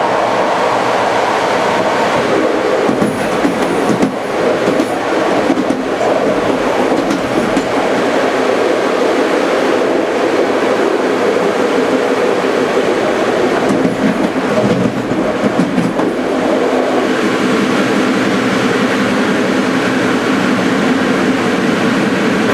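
Passenger train running along the track, heard from aboard: a continuous rumble of wheels and carriage, with a few sharp knocks over rail joints a few seconds in and again about two-thirds of the way through.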